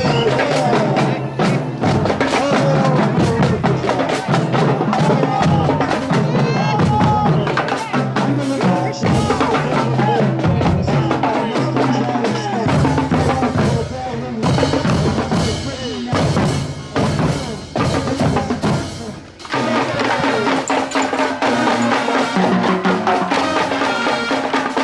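Marching band playing, with drums beating prominently under the pitched instruments.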